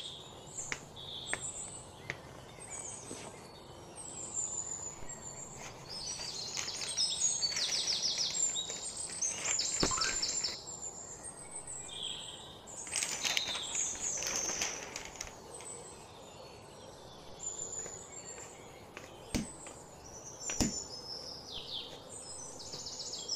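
Several songbirds chirping and trilling in quick repeated notes over a low steady outdoor background noise, with a few sharp clicks or knocks now and then.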